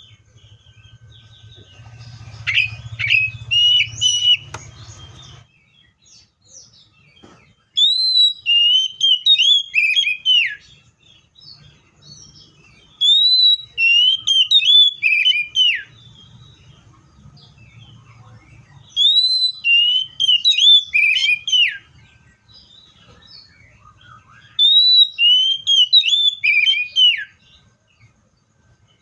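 Magpie-robin singing: five phrases of loud, clear slurred whistles, each a quick run of mostly falling notes lasting about three seconds, with pauses of a few seconds between them. A faint low hum sits under the first phrase.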